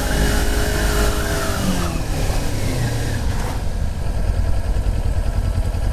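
Motorcycle engine with its revs falling as the bike slows, with wind noise that dies away about three and a half seconds in. The engine then settles into a steady low idle.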